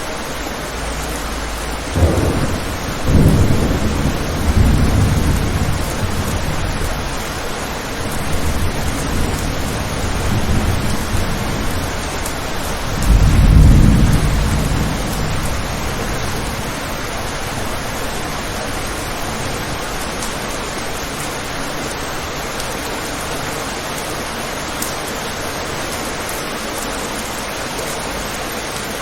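Steady rain hissing, with rumbles of thunder rolling in about 2 s in, again over the next few seconds, and loudest around 13 to 15 s before dying away to rain alone.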